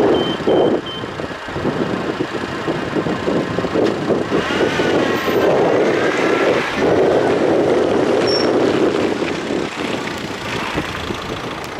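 Level-crossing warning signal beeping in a quick even rhythm, about three to four beeps a second, stopping about a second in. Beneath it, the rumble of two diesel freight locomotives running away from the crossing, fading toward the end.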